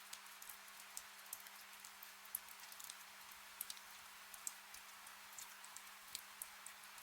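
Faint, gentle rain: a steady hiss with individual drops ticking irregularly.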